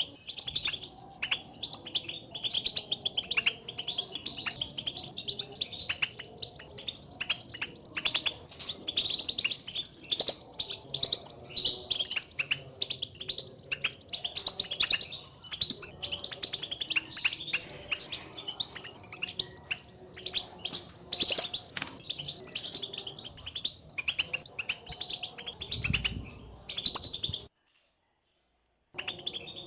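European goldfinch call notes: a rapid, continuous run of short, high chirping contact calls, the 'batbata' chatter goldfinches use to call to each other, breaking off abruptly for a moment near the end.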